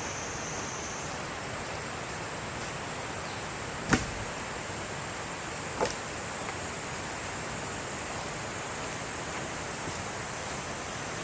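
Steady rain hiss, with a thin, steady high-pitched tone over it. Two sharp knocks stand out, the louder one about four seconds in and a softer one about two seconds later.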